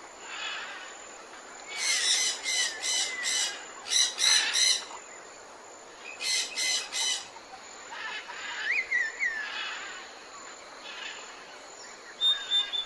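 Birds calling outdoors: two bursts of rapid, repeated chattering notes about two and six seconds in, with short whistled chirps between them.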